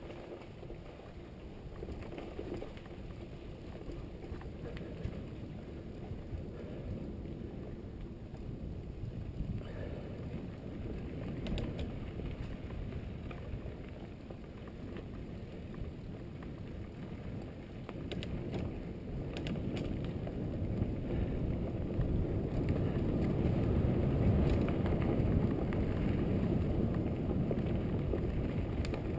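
A Trek Fuel EX8 mountain bike being ridden, heard from a GoPro mounted on the bike or the rider's helmet: a steady low rumble of tyres and wind on the microphone, with a few sharp rattling clicks around the middle. The rumble grows louder over the second half as the bike picks up speed.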